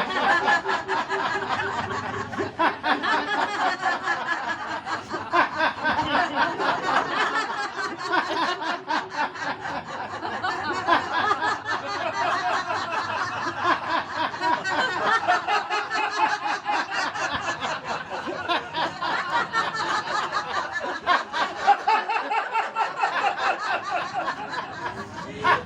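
A group of people laughing heartily together in long, unbroken peals of 'ha-ha-ha' laughter.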